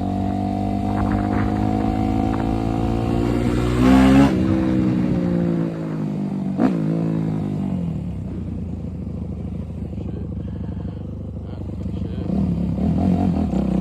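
Dirt bike engine running as it is ridden: the pitch climbs slowly, surges loudly for a moment about four seconds in, then winds down and runs lower before picking up again near the end. A single sharp click is heard shortly after the engine starts to wind down.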